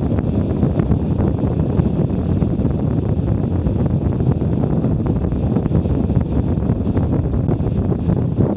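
Loud, steady wind rush and buffeting on the microphone of an action camera riding on a moving motorcycle, heaviest in the low end.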